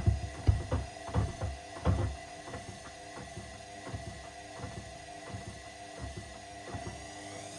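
Washing machine drum turning with sneakers inside, under a steady motor hum. Heavy dull thumps come about twice a second in the first two seconds, then lighter knocks.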